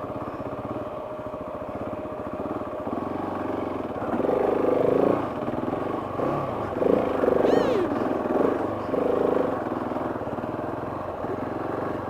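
KTM 690's single-cylinder engine running as the motorcycle is ridden, the engine note swelling with the throttle a few times, around four, seven and nine seconds in.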